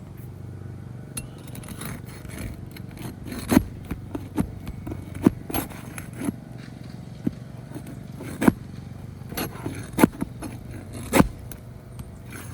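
Hand tools working nails out from under asphalt roof shingles: a run of sharp metallic clicks and knocks with short scrapes, about five loud strikes spread through, over a steady low background hum.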